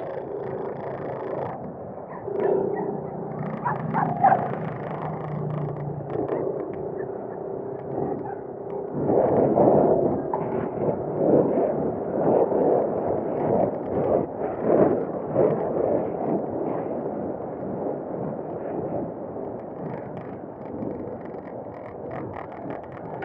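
Motorcycle engine running on the move, with road and traffic noise, and a run of loud uneven surges in the middle.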